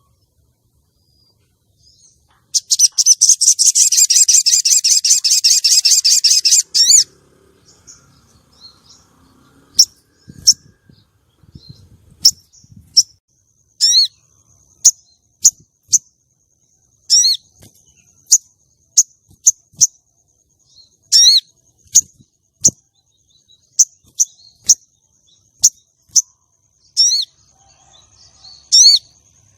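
Female ruby-cheeked sunbird (sogon) calling: a rapid, high twittering run lasting about four seconds, starting a couple of seconds in. Then a string of sharp, high chirps, about one a second, over a faint thin high trill, and another twittering run begins near the end. It is the kind of female call used to lure and excite male sogon.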